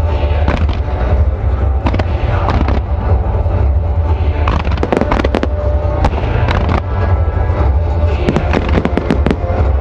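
A fireworks display: rapid sharp bangs and crackling reports from aerial shells and ground-level starmine bursts over a constant low rumble, densest about halfway and again near the end. Music plays underneath.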